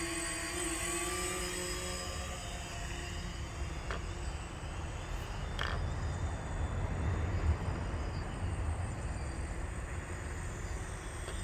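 DJI Phantom quadcopter's motors and propellers whirring in flight. Their whine is clear for the first couple of seconds, then fades into a steady rushing noise with a low rumble.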